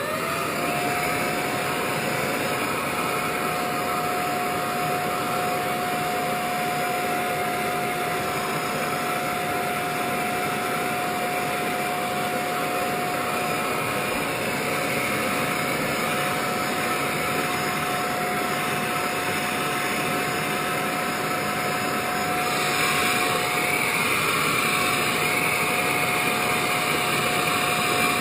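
A vacuum cleaner switching on, its motor quickly spinning up to a steady whine over a constant rush of air as it hoovers up loose static grass fibres. About 22 seconds in the sound gets a little louder and brighter.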